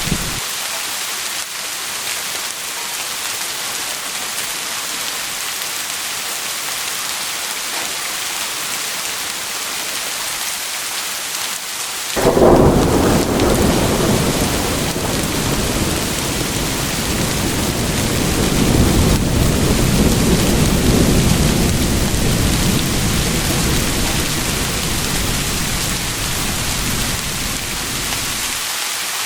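Steady heavy rain hissing, with a clap of thunder breaking in suddenly about twelve seconds in and rolling on as a long low rumble that swells once more before dying away near the end.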